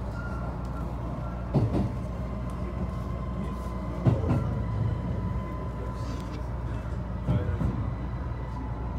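Running noise heard from inside a JR HB-E300 hybrid railcar: a steady low rumble with a thin steady whine over it, and three short thumps of the wheels over rail joints as the train draws into a station.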